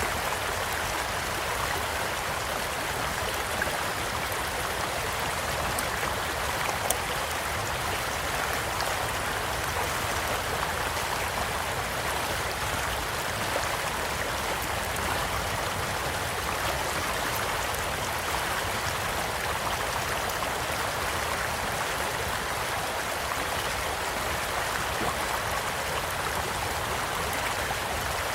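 Small stream flowing steadily, with scattered sharp pops and crackles from a wood campfire; the most prominent pop comes about seven seconds in.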